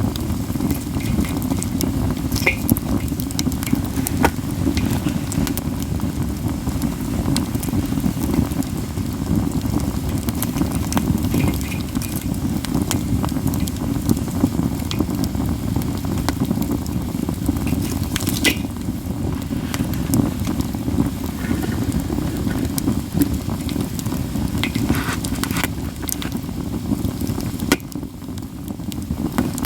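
Campfire of katsura wood crackling constantly, with scattered sharp pops, the loudest about 18 seconds in, over a steady low rumble.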